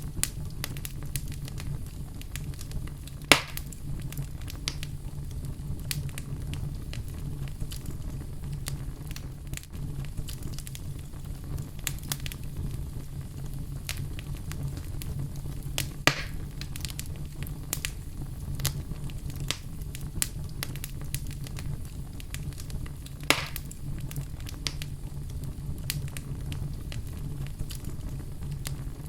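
Wood fire crackling in a fireplace: a steady low rumble under a constant scatter of small sharp clicks, with three louder pops, about 3, 16 and 23 seconds in.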